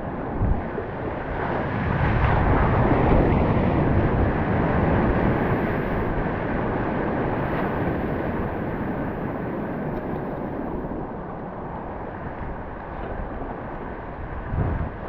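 Wind buffeting an action camera's microphone, with water noise, while kayaking. The noise swells a couple of seconds in and then eases off.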